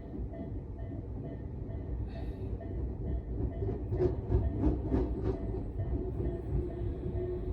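A train passing a Japanese level crossing, a low running rumble with the crossing's warning bell ringing in a steady repeating pattern. About four seconds in comes a quick run of about six wheel clacks over the rail joints, roughly three a second. After that a steady hum rises slightly in pitch.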